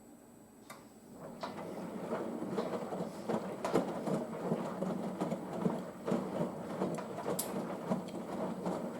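Front-loading washing machine drum beginning a slow main-wash tumble about a second and a half in: wet laundry and sudsy water sloshing and thudding around in the turning drum, in an uneven run of soft knocks.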